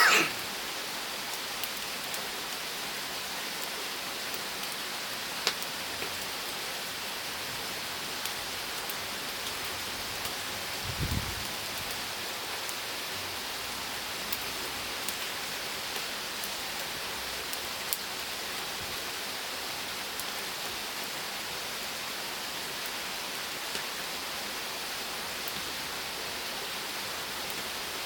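Wood fire burning: a steady hiss with sparse sharp crackles and pops, a louder crack at the start and a dull low thud about eleven seconds in.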